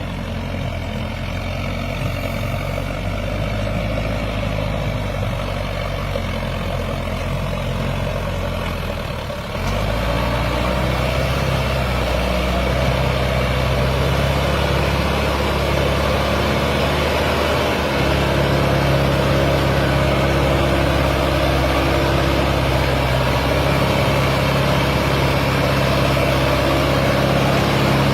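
Sonalika DI 750 tractor's diesel engine running under load while pulling a fully loaded trolley. The engine note steps up and gets louder about a third of the way in, and steps up again about two-thirds in.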